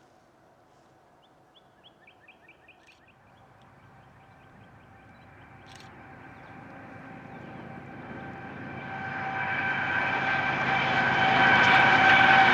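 BNSF westbound double-stack freight train approaching, its rumble growing steadily louder over several seconds with a steady pitched tone riding on it. Near the start a bird gives a quick run of chirps.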